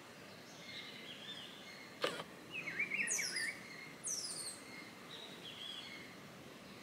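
Birds chirping, with a sharp click about two seconds in, a warbling call of quick wavering notes just after it, and two quick high calls that drop in pitch, about a second apart.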